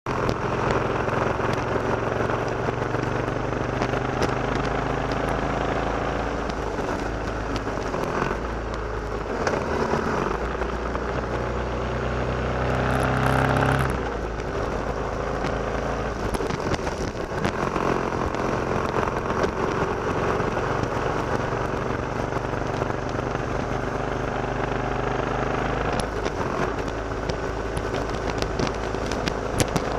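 Motorcycle engine running under way, with road and wind noise. The revs climb twice, about a third of the way in and again just before the halfway mark, where it is loudest, then drop back and run steadily.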